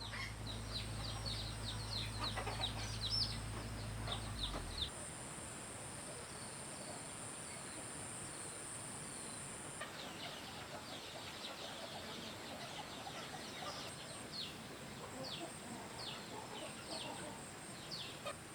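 Chickens calling: a long run of short, high peeping chirps, with a low steady hum that stops about four seconds in.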